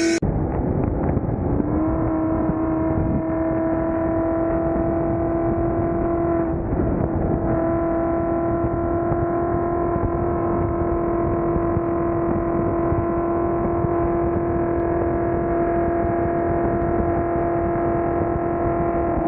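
Car being driven at a steady speed: a constant engine drone that settles in about a second and a half in and holds one level pitch, over steady road rumble.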